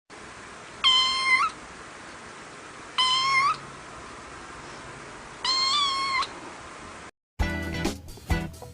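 A domestic cat meowing three times, each meow a single call of about half a second to a second, rising slightly in pitch at its end, over a steady hiss. Near the end the hiss cuts off and, after a short gap, guitar-strummed music starts.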